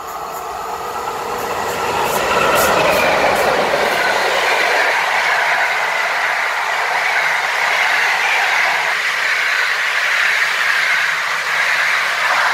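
Passenger train hauled by an EP07 electric locomotive passing through a station. The noise grows over the first two to three seconds as the locomotive arrives, with a few sharp clicks. After that the coaches' wheels roll past in a steady, loud rumble.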